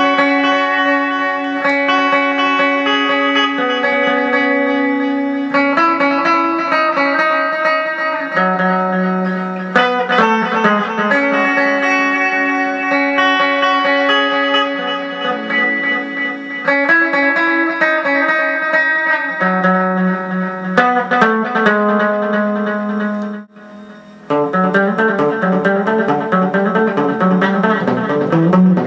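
Electric guitar played through a Behringer DD400 digital delay pedal: held notes and chords that change every two to three seconds. There is a short drop-out a few seconds before the end, after which the playing comes back fuller.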